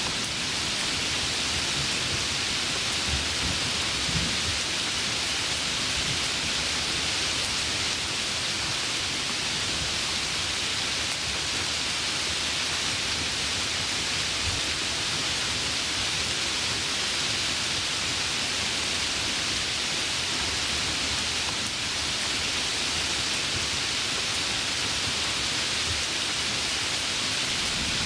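Heavy rain falling steadily, a dense even hiss, with a low rumble of thunder in the first few seconds.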